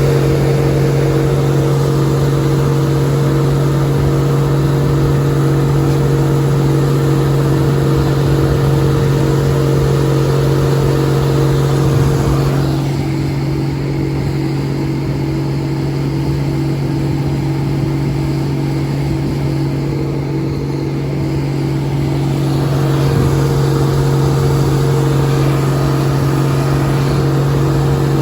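Case IH 1680 combine harvester running steadily while straight-cutting barley, a loud, even machine drone with a steady low hum. A higher steady tone in the drone fades out about halfway through and comes back a few seconds before the end.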